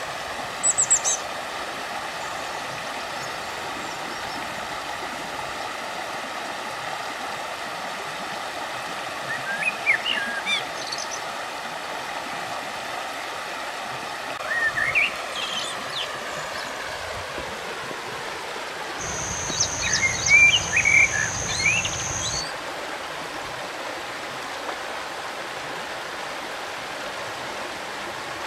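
River water flowing steadily, with small birds chirping in short bursts: a brief call about a second in, again about 10 and 15 seconds in, and a busier run of chirps around 20 seconds in.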